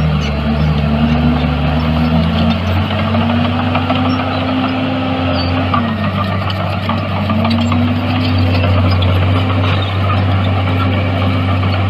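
Heavy diesel earthmoving machine running under work, its engine speed easing off about two and a half seconds in, dipping around the middle and climbing back.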